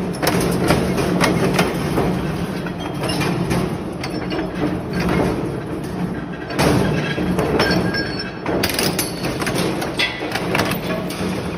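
Industrial metal shredder running with a steady hum under irregular cracks, bangs and grinding as metal is torn apart.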